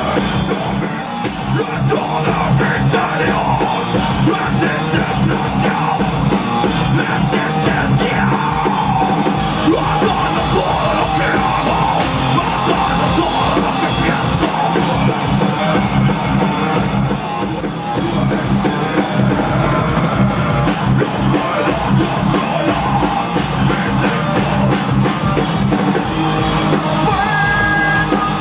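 A rock band playing live, loud and dense, with drum kit, distorted guitars and bass, and shouted or sung vocals at times.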